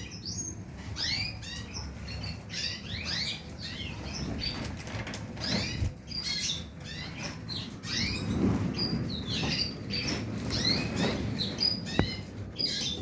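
Finches, goldfinches or canaries, twittering in a fast run of short, high chirps and trills, with one sharp click near the end.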